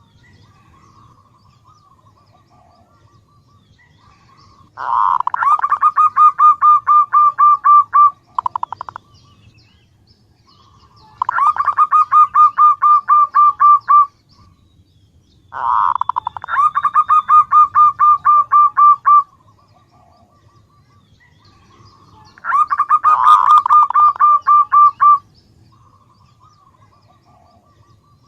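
Female zebra dove (perkutut) calling to draw in males: four loud runs of rapid, evenly repeated short notes, each about three seconds long, with softer scattered notes between them.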